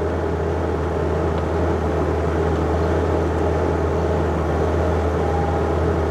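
John Deere 50ZTS mini excavator's diesel engine running at a steady pitch, a constant low drone.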